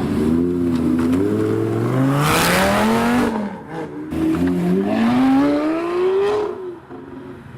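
A high-performance sports car engine accelerating hard. It revs up in pitch, breaks briefly for a gear change with a burst of noise, then revs up again and fades as the car pulls away.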